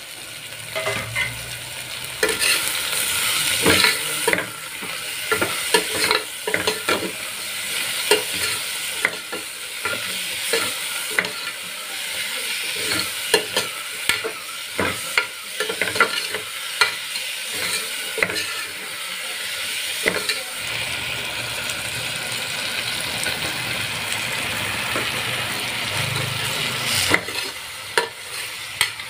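Chopped vegetables sizzling in hot oil in an aluminium pressure cooker, stirred with a steel ladle that scrapes and clicks against the pot.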